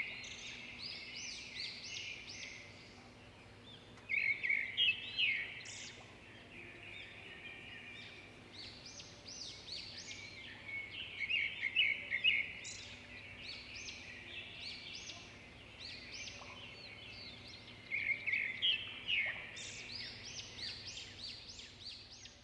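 A songbird singing in bursts of rapid high chirps and rising whistled notes. The bursts come back every six to eight seconds.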